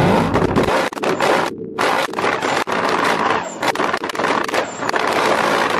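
Several tuned cars, among them a Toyota Supra and an HSV V8, revved hard together: a loud, harsh wall of exhaust noise broken by many sharp cracks and pops.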